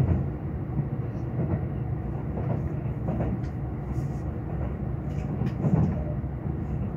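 Cabin noise of a Kintetsu 22600-series Ace limited express running on the line: a steady low rumble of wheels on rails with a few faint clicks.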